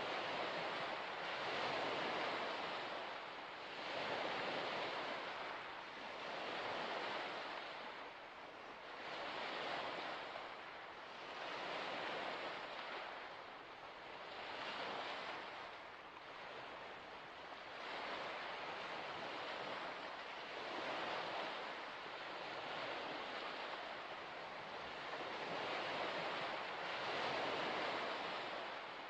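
Waves washing onto a shore, a steady sound of water that swells and falls back about every two seconds.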